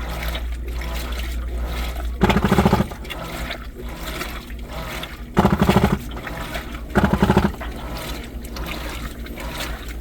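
New washing machine mid-wash, water sloshing over a steady low hum. Three times, a couple of seconds in, past halfway and again a second later, a short buzzing groan of about half a second stands out: the 'stuck' noise the machine makes while washing.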